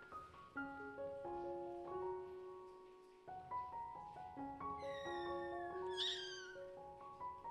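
A kitten meowing, high-pitched and falling in pitch, about two-thirds of the way in: a long call, then a second, stronger one about a second later. Light mallet-instrument background music plays throughout.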